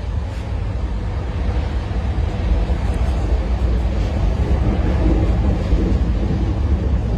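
Passenger train running at speed, heard from inside a sleeper coach: a steady low rumble of wheels on rail and coach running noise, growing a little louder in the first couple of seconds.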